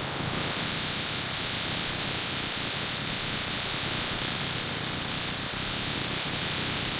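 Steady, even hiss of machinery room noise on a food production floor, with no distinct events. The hiss brightens at the top just after the start.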